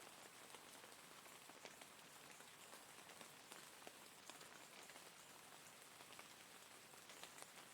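Faint, steady rain falling, an even hiss scattered with the ticks of individual drops striking a surface.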